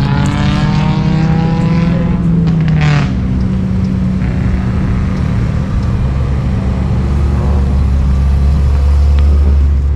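Car engines running close by, a loud steady exhaust drone that turns deeper and heavier about halfway through.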